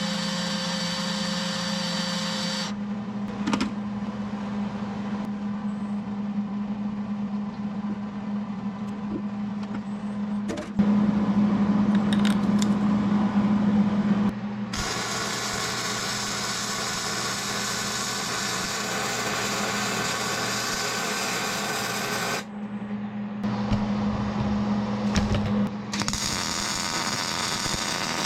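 Wire-feed welder laying a bead along a steel bucket's cutting edge: a steady crackling hiss over an electrical buzz. It changes abruptly in tone and loudness several times, loudest for a few seconds just before the middle.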